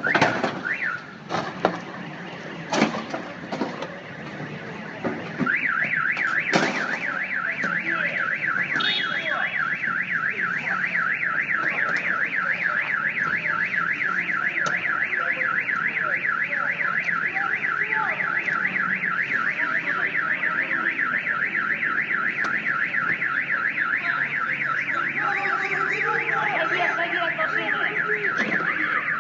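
A car alarm sounding a rapid warbling electronic tone that starts about five seconds in and keeps going. Before it come a few sharp knocks and short chirps.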